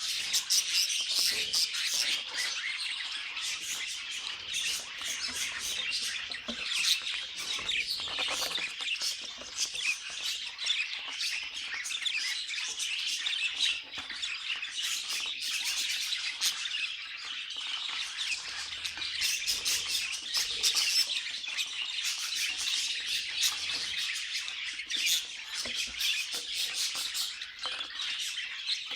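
A flock of budgerigars chattering and warbling together, a continuous mix of chirps, squawks and clicking calls.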